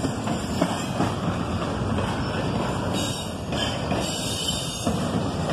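Double-stack intermodal train's loaded well cars rolling past: a steady rumble of steel wheels on rail with a few sharp clacks.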